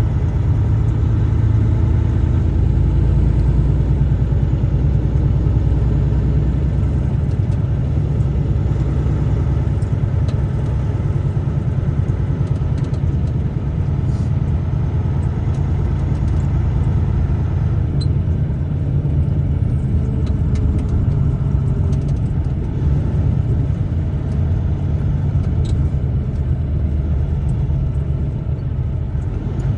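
A truck driving along: a steady low rumble of engine and road noise, a little louder in the first few seconds.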